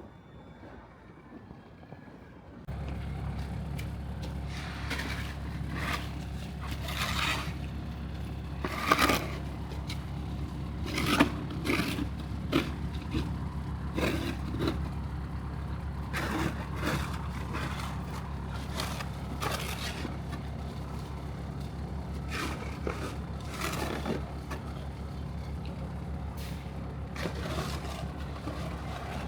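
A steady low engine drone that starts suddenly about three seconds in, with irregular scraping and crunching sounds over it, typical of snow being scraped near a running vehicle.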